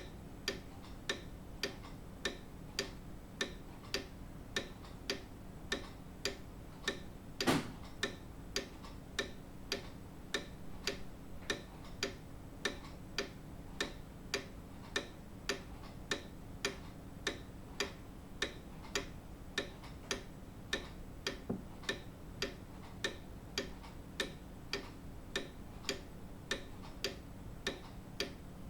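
Grandfather clock ticking in an even, steady rhythm of sharp ticks. There is a single louder knock about a quarter of the way in.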